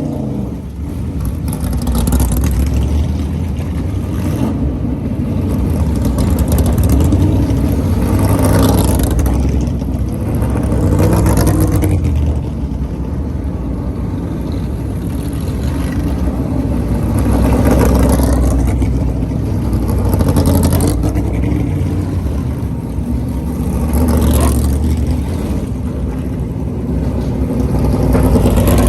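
NASCAR stock cars' V8 engines rumbling loudly as the cars drive past one after another, each pass swelling and fading with revving, about every two to four seconds.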